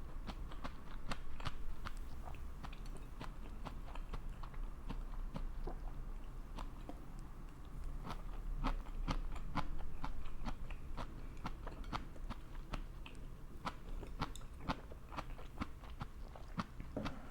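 Close-miked chewing and biting: a person eating, with many short crisp clicks and smacks of the mouth and teeth on the food.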